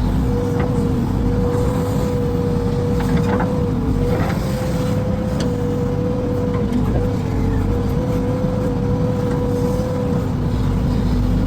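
Diesel tractor engine running steadily, with a constant low drone and a steady hum.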